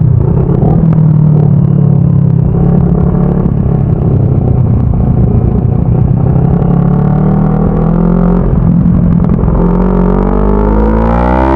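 CFMoto 400NK motorcycle's parallel-twin engine running at steady revs while riding, then rising in pitch as it accelerates near the end.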